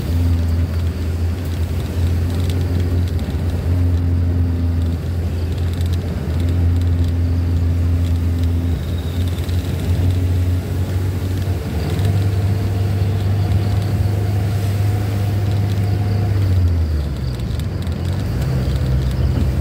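Ambulance engine running steadily, heard from inside the cabin as a low drone. Its pitch steps up about twelve seconds in, dips briefly, then settles higher near the end.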